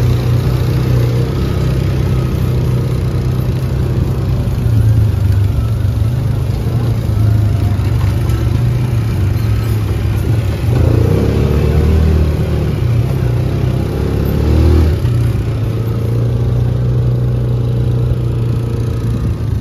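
A vehicle's engine running steadily while driving, with a stretch of revving and changing pitch from about ten to fifteen seconds in before it settles back.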